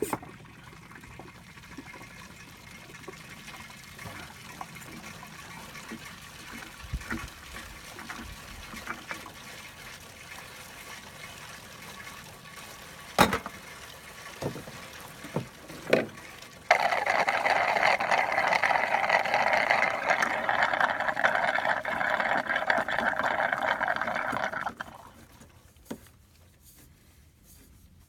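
Liquid, likely engine oil, pouring steadily for about eight seconds as a small engine's oil is drained or refilled. It starts and stops abruptly and is preceded by a few sharp knocks.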